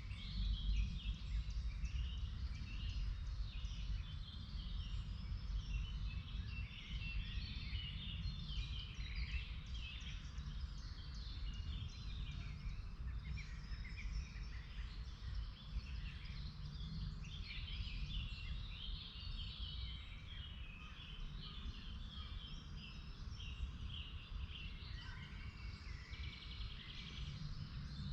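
Several songbirds chirping and singing in woodland, many short overlapping calls all the way through, over a low steady rumble.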